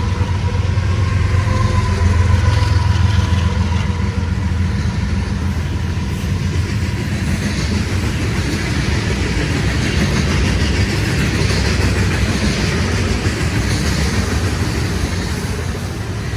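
Freight train passing at speed: the deep rumble of diesel locomotives in the first several seconds gives way to the steady rush of cars rolling over the rails.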